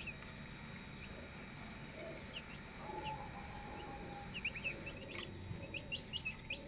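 Small birds chirping: short, high chirps scattered at first, then coming thick and fast in the last couple of seconds.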